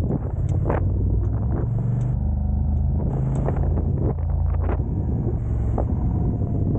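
Car driving along, its engine and road noise making a steady low rumble, with a few short light knocks scattered through it.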